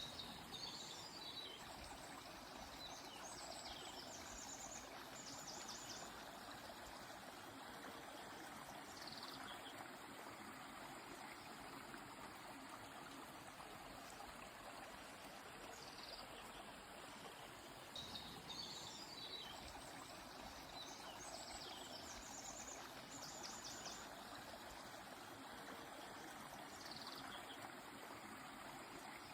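Steady rushing of a river, with birds singing in short, high phrases: quick falling notes and rapid trills. The calls come in two clusters, near the start and again past the middle, and the second is a repeat of the first.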